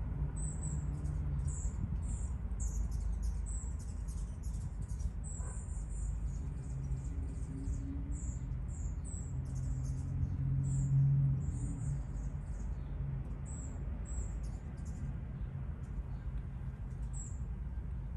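Small birds chirping in quick, high-pitched notes through most of the stretch, over a low steady hum that swells briefly about two-thirds of the way through.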